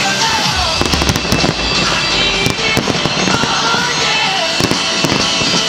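Fireworks bursting and crackling in rapid, irregular succession over loud music.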